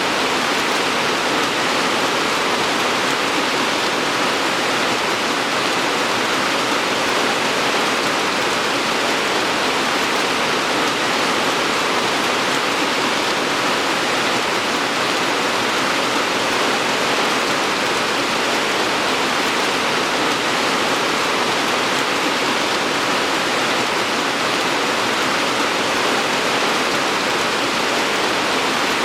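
Steady rain falling, an even hiss with no distinct drops or pauses.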